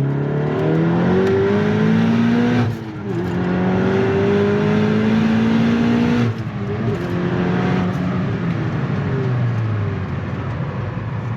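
2017 Volkswagen Golf R's turbocharged four-cylinder engine with an HPA FR450 turbo, pulled hard under full throttle. The engine note rises in pitch, breaks off briefly at about three seconds for a gear change, and climbs again. It drops at about six seconds, then runs steadier and falls in pitch near the end.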